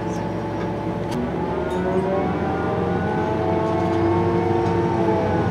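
Diesel railcar's engine and transmission running under load, a set of tones rising in pitch from about two seconds in and levelling off near the end as the train gathers speed, growing slightly louder.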